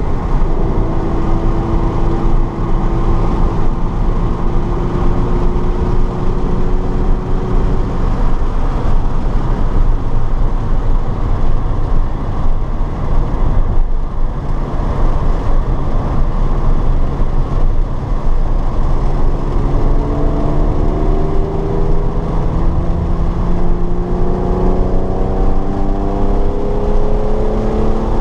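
Race-track car at speed: the engine note holds steady for the first several seconds, gives way to mostly wind and road noise through the middle, then climbs steadily in pitch through the last third as the car accelerates.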